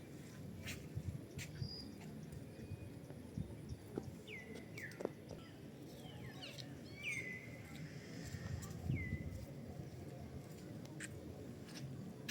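Birds calling: several short whistled calls that slide down in pitch, over a low steady background rumble, with a few sharp clicks scattered through.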